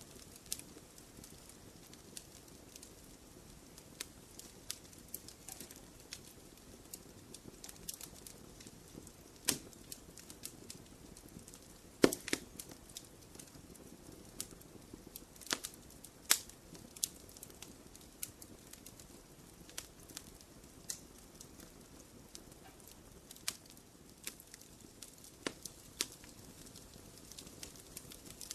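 Wood fire burning in a fireplace: a low steady hiss with irregular sharp crackles and pops, the loudest about twelve seconds in.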